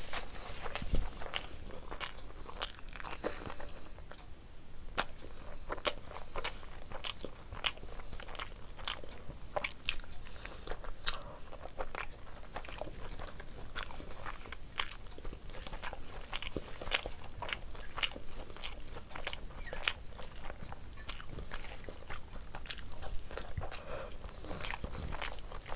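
Mouth sounds of eating rice and egg curry by hand: wet chewing and lip smacking, with many short sharp clicks at an irregular pace.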